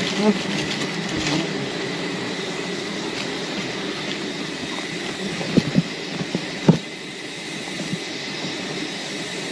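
Steady dense hum of a swarm of wild bees around the hive, with a few sharp knocks about five to seven seconds in.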